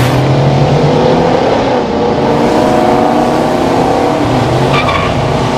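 Muscle car engine running hard at high revs, a loud steady engine note that cuts in abruptly, with some tyre noise.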